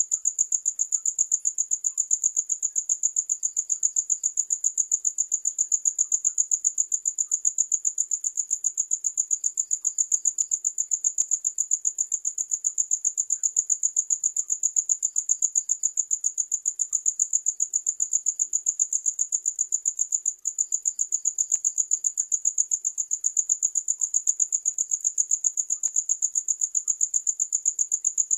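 Crickets chirping in a rapid, even, high-pitched pulse that runs on without a break, apart from a brief dip about 20 seconds in.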